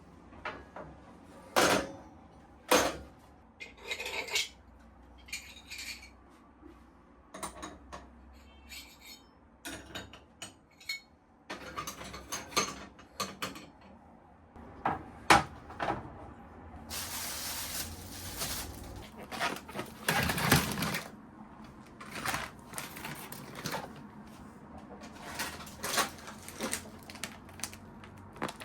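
Irregular clinks, knocks and clatters of small hard objects being handled, with a hissing noise lasting about four seconds past the middle.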